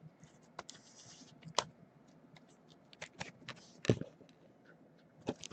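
Trading cards being handled: scattered light clicks and taps, with a couple of sharper clicks and a brief soft rustle.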